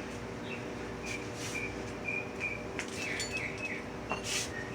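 A string of short, high bird chirps over a steady low hum.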